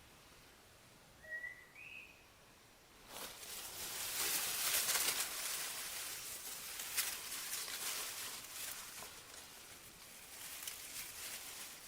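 A bird gives two short rising chirps, then about three seconds in a loud rustling and crackling, like something moving through dry leaves and brush, starts and goes on, easing off toward the end.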